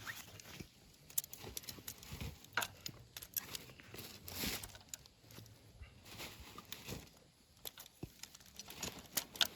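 Scattered sharp clicks, taps and rustling from objects being handled, with a louder rustle about four and a half seconds in.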